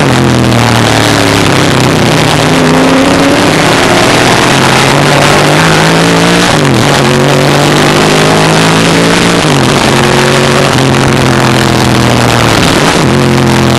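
1963 Ford Falcon Sprint's V8 racing engine heard from inside the car at full throttle, its pitch climbing through each gear and dropping at three upshifts: about halfway, a few seconds later, and near the end.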